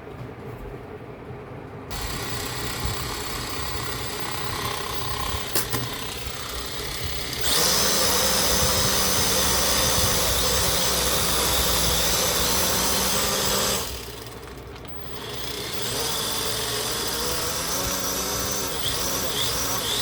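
A small motor running in spells: a steady, louder stretch with a high whine from about eight seconds in to about fourteen, a brief drop, then it runs steadily again.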